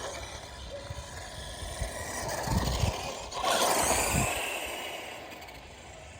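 Redcat Volcano 16 RC monster truck driving over rough ground: tyre and motor noise with a few thumps near the middle. It is loudest just past halfway, then fades as the truck moves off.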